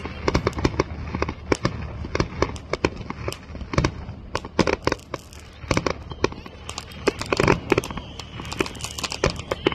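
Fireworks going off in quick, irregular succession: many sharp bangs and crackles overlapping, with a dense run of louder bangs about seven seconds in.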